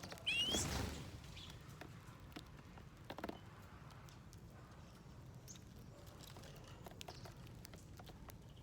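Birds at a feeding plate: a short rising chirp with a loud burst of rustling about half a second in, then scattered light taps of pecking at seeds and nuts.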